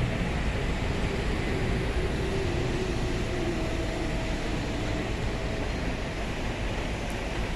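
Steady noise of a vehicle running, with a faint whine that fades out about four seconds in.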